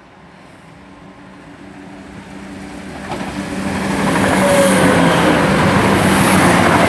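A Class 175 diesel multiple unit passing through the station. It approaches and grows steadily louder, and its engines and wheels are loudest from about four seconds in.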